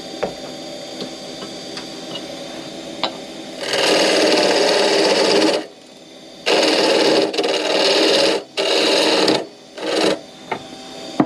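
Wood lathe running with a steady hum, with a turning tool or abrasive worked against the spinning wood in five loud scraping spells. The first and longest, nearly two seconds, starts about a third of the way in; the last, near the end, is brief.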